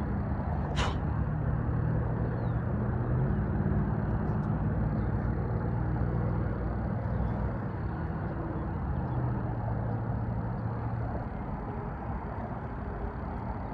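Steady low rumble of outdoor background noise that swells and eases twice, with one short sharp click about a second in.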